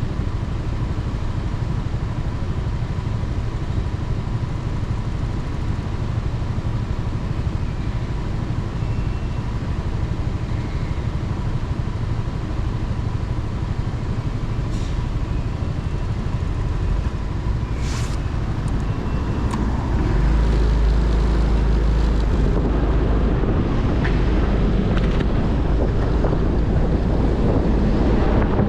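Motorcycle engine running while riding on the road, with wind rumbling on the microphone that gets louder about two-thirds of the way in.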